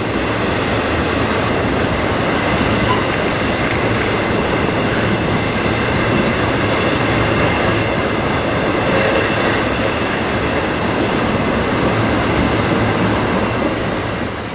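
Cars of a long BNSF intermodal freight train rolling slowly past: a loud, steady rumble and rattle of steel wheels on rail, with a faint high steady squeal.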